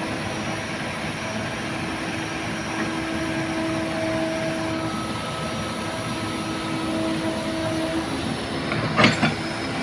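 Heavy diesel engine running steadily, with a droning tone that comes and goes. There is a short, sharp knock about nine seconds in.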